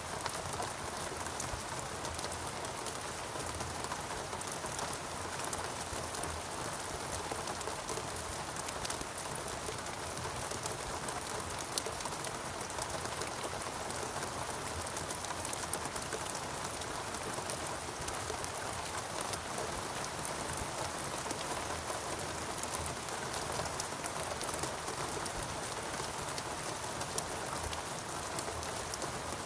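Steady rain falling on a rainforest canopy and ground, an even wash of countless fine drop patters with no let-up.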